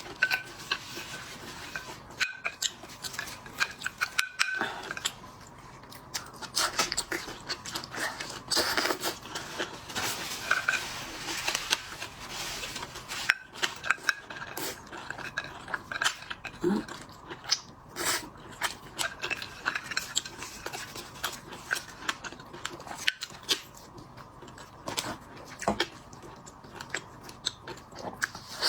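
Close-up chewing and crunching of shellfish, with frequent sharp cracks and clicks.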